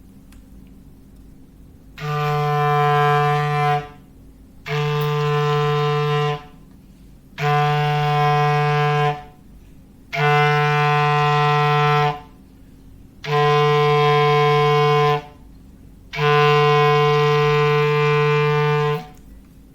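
Foghorn sounding six long blasts at a steady pitch, each about two seconds long with a short pause between; the last is the longest.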